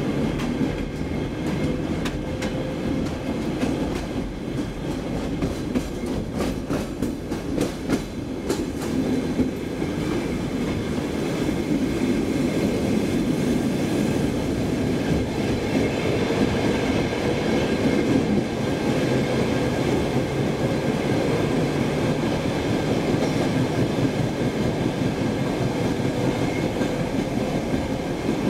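Inside a Saltsjöbanan C10 electric train car under way: the steady rumble of wheels on rail. Between about four and nine seconds in comes a run of clicks as the wheels pass rail joints, over a faint electric motor whine that drifts up in pitch.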